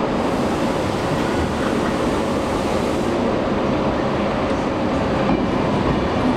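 A railway train running with a steady, even noise.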